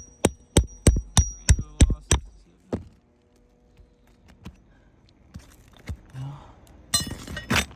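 Hammer driving a cat's claw nail puller under a roofing nail head: a quick run of ringing metal-on-metal blows, about three a second, then one last blow. Scraping near the end as the nail is pried out.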